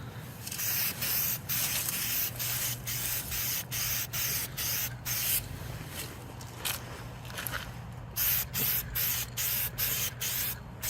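Aerosol spray paint can spraying a coat onto an M1 helmet liner in short hissing bursts, about two a second, with a thinner stretch past the middle. A low steady hum runs underneath.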